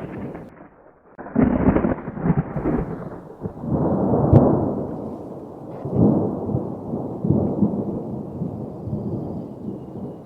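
Rumbling noise rising and falling in several swells, with a sharp crack about four seconds in.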